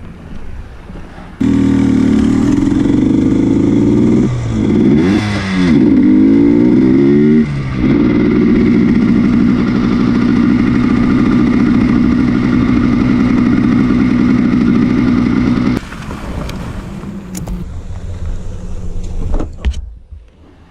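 Motorcycle engine that comes in suddenly about a second and a half in, revs with a dip and rise in pitch a few seconds later, runs steadily, then cuts off abruptly about 16 seconds in.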